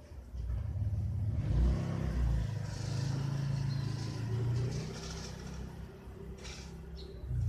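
A car running with a low rumble that builds just after the start and dies down about five seconds in.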